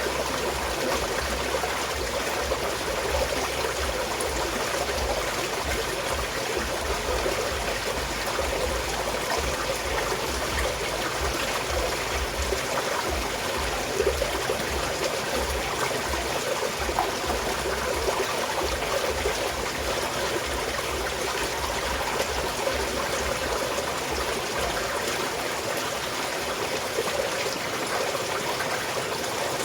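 A small mountain stream flowing and trickling, a steady, unbroken babble of running water.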